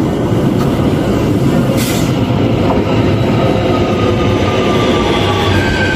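Bombardier Z 50000 Francilien electric multiple unit pulling into a station: a loud steady rumble of wheels on rail, with a brief hiss about two seconds in and a whine that slides slowly down in pitch as the train slows.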